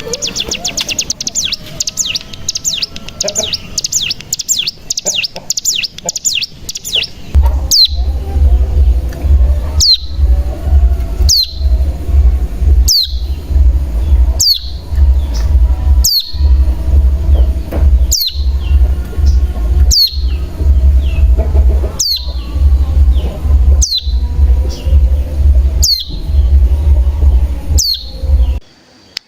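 Cigun (ciblek gunung) song from a lure recording: a fast, dense trill for about the first seven seconds, then single sharp down-slurred call notes repeated about every second and a half over a steady low hum.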